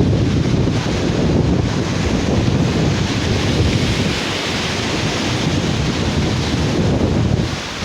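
Wind buffeting the microphone with a rumble over the steady wash of sea surf on a beach, which swells a little around the middle.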